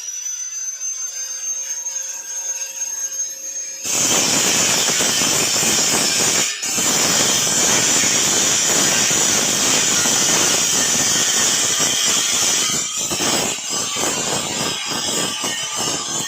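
A power tool running: a high steady whine, then from about four seconds in a loud, harsh grinding hiss with a few brief dips, typical of metal being cut or ground for a canopy frame.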